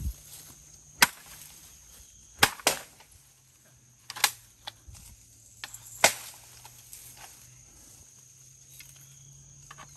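A blade chopping at the poles of a bird-catching net in a series of sharp, irregularly spaced strikes. The strongest seven come in the first six seconds, and a few lighter ones follow.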